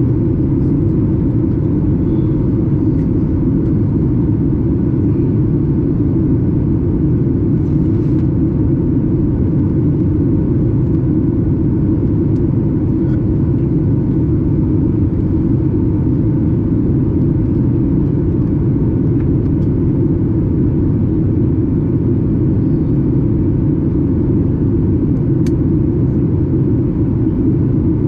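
Steady cabin noise of a Boeing 737 MAX 8 in flight: an even, low rumble of its CFM LEAP-1B engines and airflow, heard from a window seat, with a faint steady hum on top.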